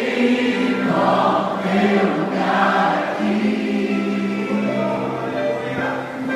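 Church worship music: voices singing long held notes together over the band.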